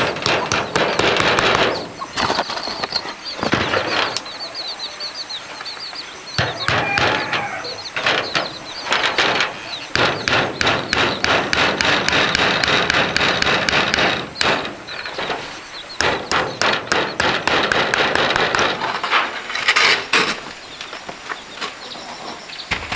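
Irregular knocking, clicking and scraping in bursts, as of hand work with tools and materials, with a few short bird chirps about two to three seconds in.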